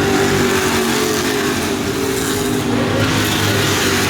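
Engines of several short-track racing trucks running at speed together, a steady sound of overlapping engine notes.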